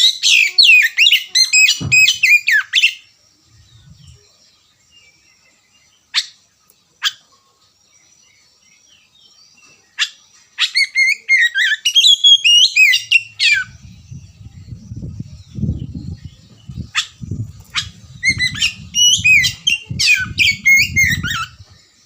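Oriental magpie-robin singing in three bursts of quick, varied, warbling phrases, with single sharp call notes in the pauses between them. A low rumble runs under the second half.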